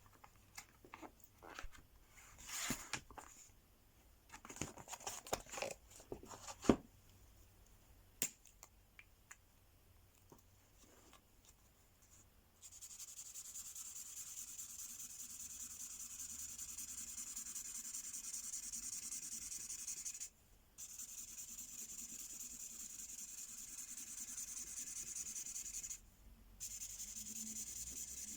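Scattered clicks and rustles of handling, then about twelve seconds in an L.O.L. Surprise mystery ink pen starts colouring on paper: a continuous scratchy rubbing of the pen tip that pauses briefly twice.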